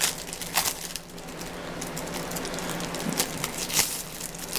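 Scattered crinkles and light clicks of a trading-card pack's packaging being handled and opened, over a steady low hum.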